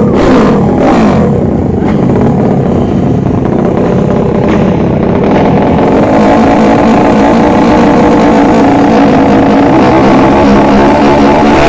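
Motorcycle engine running loud and steady at high revs, with a few short cracks in the first second.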